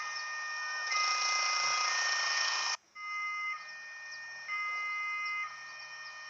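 Electronic two-tone warning alarm of a railway level crossing, sounding in even steps that switch pitch about once a second. A loud hiss lies over it until an abrupt break about three seconds in, after which the alarm goes on, quieter.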